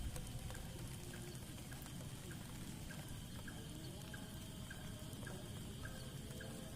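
Steady rain falling, with a faint high steady drone and a short chirp repeating about twice a second.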